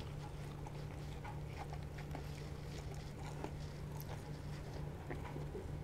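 Faint chewing and small wet mouth clicks of a person eating spicy fried chicken, over a steady low hum.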